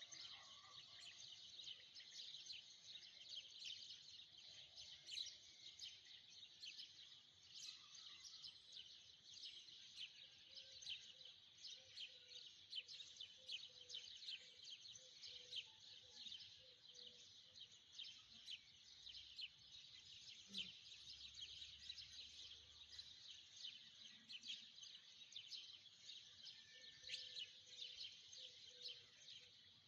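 Faint, continuous outdoor wildlife chorus of dense, high-pitched chirping.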